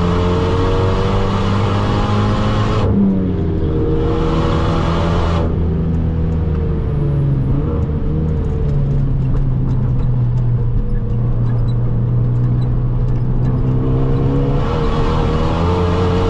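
Tuned Renault Mégane R.S. 265's turbocharged four-cylinder engine heard from inside the cabin on track. It pulls with rising pitch, then the revs drop about three seconds in. After about five seconds it settles to a steadier, softer drone, and it rises again near the end.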